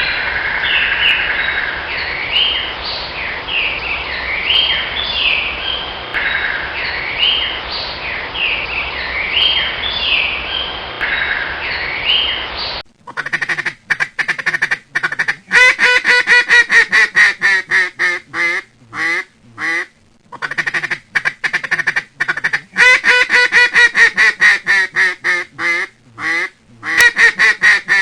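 Small birds chirping in a busy chorus; about thirteen seconds in it cuts abruptly to ducks quacking in fast, loud runs of calls.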